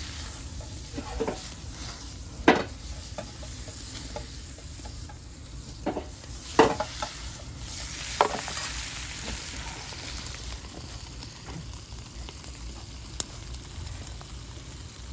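Food sizzling in a large iron frying pan over a wood fire: a steady frying hiss, with a few sharp knocks of a utensil against the pan, the loudest about two and a half and six and a half seconds in.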